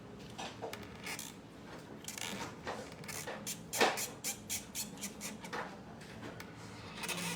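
A pen drawing on paper: a quick, irregular run of short scratchy strokes, with the loudest a little past the middle.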